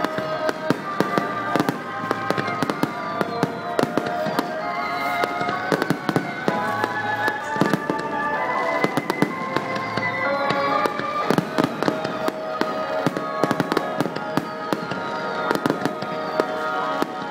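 Fireworks bursting in quick succession: many sharp bangs and crackles with falling whistles, while music plays.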